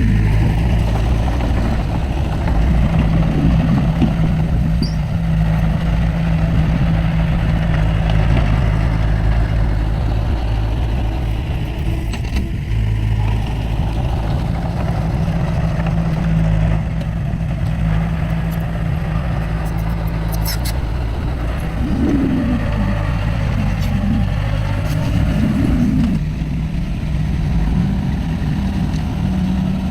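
Heavy diesel engine of earthmoving machinery running steadily under work. Its note swells and dips a few times in the last third, with a few light clicks shortly before.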